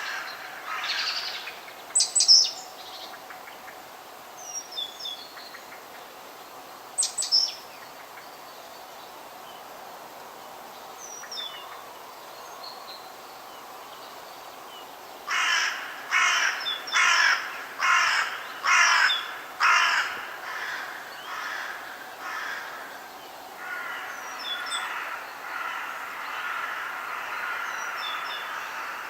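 Forest birds calling: a run of about nine loud calls, roughly two a second, about halfway through, then a softer series. Short, high chirps from smaller birds come in here and there.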